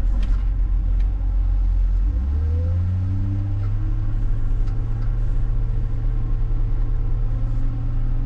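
John Deere 544K wheel loader's diesel engine running under load while pushing snow. It revs up about two seconds in and holds at the higher speed, with a short rising whine just after.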